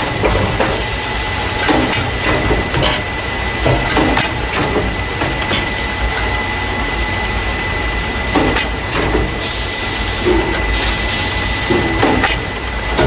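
Carton caser running in a factory: paper juice and milk cartons being moved into plastic crates. A steady mechanical hum with a constant whine runs under irregular clicks and knocks, and short hisses come twice just past the middle.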